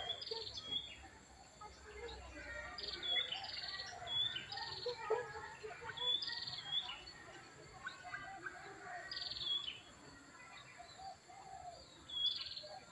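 Small birds chirping: short high calls, often in pairs, repeating every few seconds over fainter twittering.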